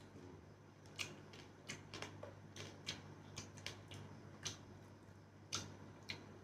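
Close-miked eating sounds: chewing and lip-smacking, heard as about a dozen soft, irregular clicks spaced out over several seconds.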